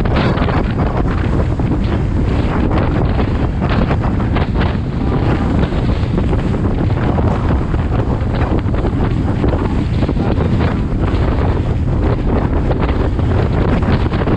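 Strong wind blasting the microphone over rough water, with waves slapping and splashing against the hull of a Ranger 620FS fishing boat in quick, irregular hits.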